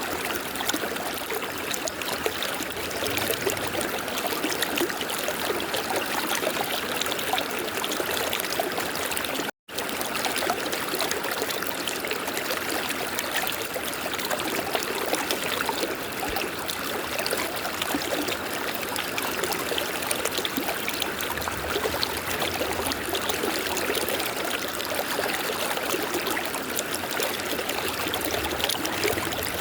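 River water flowing steadily, with a brief dropout to silence about ten seconds in.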